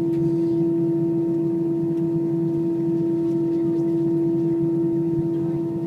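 Airbus A319 cabin drone: a steady, unchanging hum with one strong constant tone over a rougher low rumble, from the airliner's engines or air systems running.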